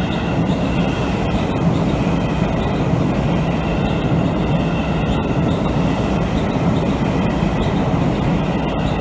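Seibu 20000 series electric commuter train running past at close range: steady rumble of its wheels on the rails.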